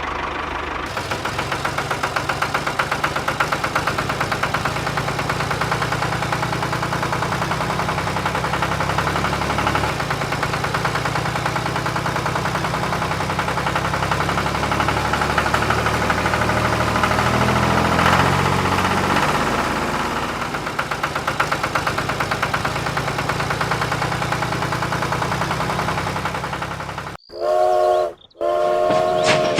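A motor vehicle's engine running with a rapid, even chugging and a low hum, then two short horn blasts near the end.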